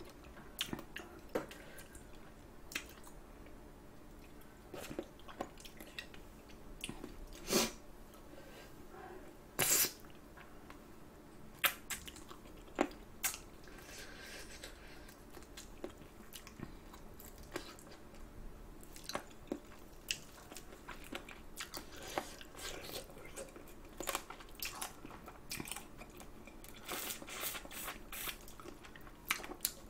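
Close-up chewing and biting of sauced spicy chicken feet: irregular wet, sticky mouth sounds broken by sharp clicks and crunches, the loudest about a quarter and a third of the way in, and a busier run of them near the end.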